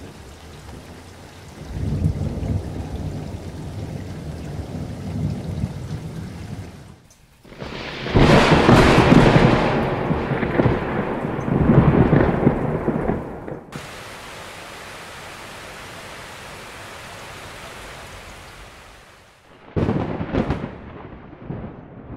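Heavy rain pouring down, with deep rumbling like thunder. The sound changes abruptly several times, and is loudest and most rumbling in the middle.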